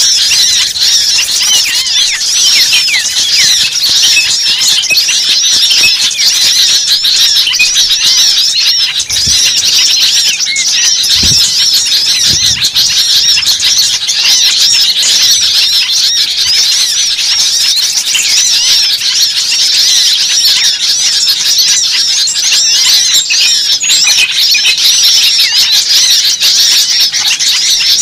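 Dense, unbroken chorus of many high-pitched chirps and squeals at once from a large flock of birds.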